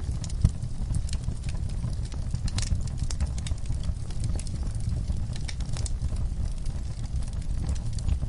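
Wood fire crackling in a fireplace: irregular sharp pops and snaps over a low, steady rumble, with one louder pop about half a second in.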